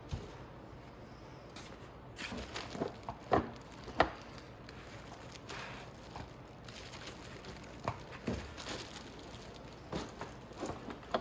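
Motorcycle front seat being fitted onto the frame: scattered knocks and clicks of the seat's hooks and plastic against the bike. The sharpest knock comes about four seconds in, with another cluster near the end.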